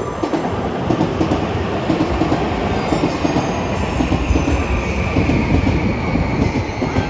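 Electric commuter train running alongside the platform, its wheels clattering over the rail joints with a steady rumble. A thin high whine comes in about halfway through.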